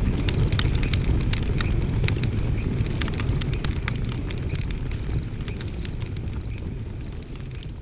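Wood burning in a Makulite fire pit, crackling and popping with sharp irregular snaps over a low rumble of flame. An insect chirps in short repeated trills about twice a second. The whole sound fades out gradually through the second half.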